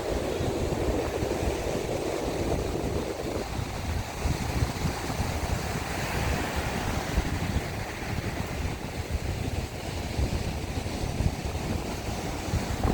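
Strong wind buffeting the microphone over breaking surf. A steadier hum under it stops about three seconds in.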